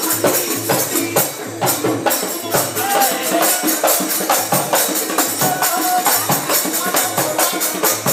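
Live music for a tirikutu folk dance: a rapid steady beat of percussion with jingling tambourine-like strokes and a few short melodic notes.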